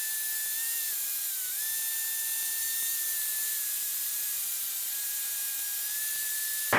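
Cessna 152 cockpit intercom audio feed between radio calls: a steady hiss with a thin, high whine that dips slightly in pitch a few times.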